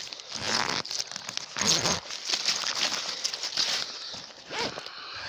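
Crinkling and rustling of gathered birch bark and gear being handled and packed away, with irregular crunching bursts.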